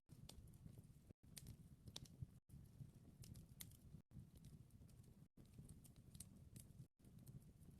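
Wood fire crackling faintly: scattered small sharp pops over a low rumble, with brief dropouts in the sound about every second.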